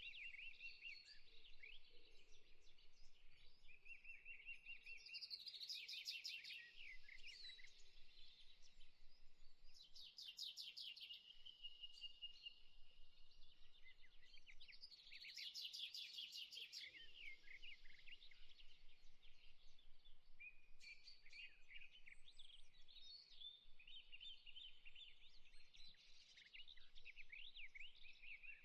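Faint birdsong: several small birds chirping without pause, with fast rattling trills about 6, 10 and 16 seconds in.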